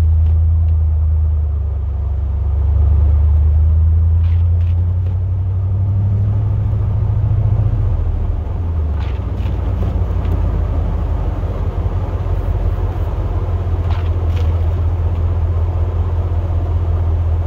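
Plow truck's engine and driving noise heard from inside the cab: a steady low drone whose engine note shifts about six to eight seconds in, with a few faint clicks.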